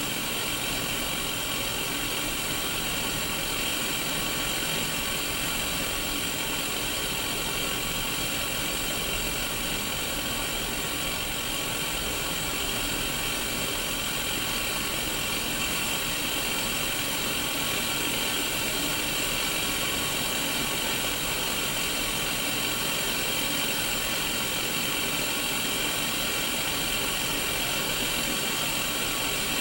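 Sony Mega Watchman black-and-white CRT TV playing untuned-channel static: a steady, even hiss, brightest in the upper-middle range.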